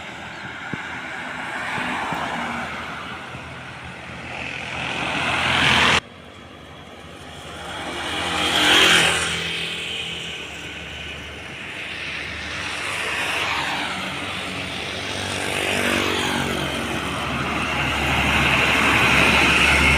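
Heavy road traffic: trucks and buses passing close one after another, each rising to a peak of engine and tyre noise and falling away in pitch as it goes by, about five passes in all. The sound breaks off abruptly about six seconds in.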